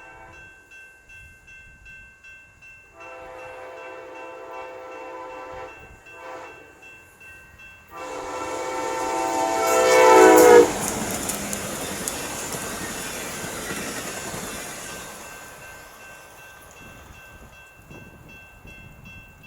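Amtrak passenger train's air horn sounding a long blast, a short one, then a long blast that grows louder as the train nears and cuts off abruptly, the grade-crossing pattern. The train then passes with a loud rumble and wheel clatter that fades away over several seconds.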